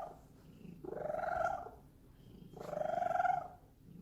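A Bombay cat purring loudly in rhythmic breaths, each about a second long, with short quieter gaps between them.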